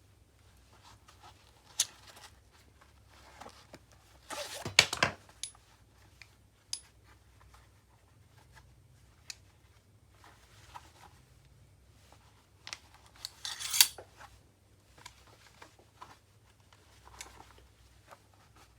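Heavy all-metal firewood tongs being worked by hand, with sharp metallic clacks and clinks as the jaws and joints open and close. There are two louder clattering runs, one about four and a half seconds in and one around thirteen seconds in, with lighter scattered clicks between them.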